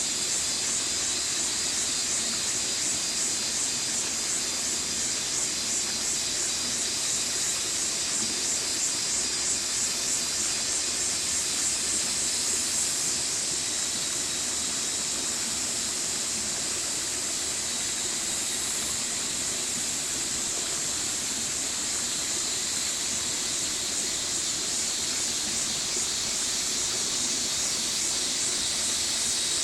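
Stream water flowing in a steady, bright rush without a break.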